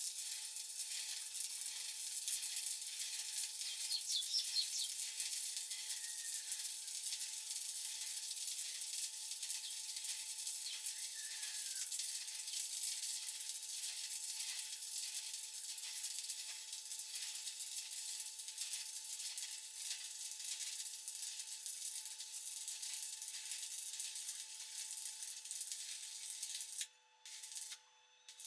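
Stick (SMAW) welding arc crackling and hissing steadily while a vertical bead is run. Near the end the arc breaks off, restrikes for a moment, then stops.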